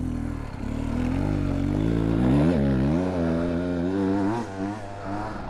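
Gas dirt bike engine running and revving: its pitch climbs over the first couple of seconds, dips and rises again briefly, then holds steadier and eases off near the end.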